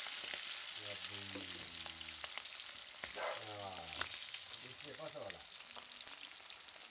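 Marinated chicken wings deep-frying in hot oil in a pan: a steady sizzle with scattered crackles and pops.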